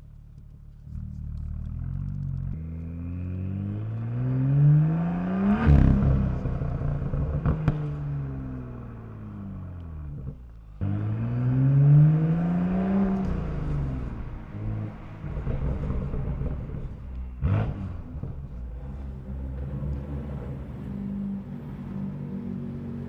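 BMW M2's N55 turbocharged inline-six through the M Performance exhaust, revving hard twice: the pitch climbs, breaks and falls back each time. There is a single sharp crack partway through, then the engine settles to a steadier, lower note.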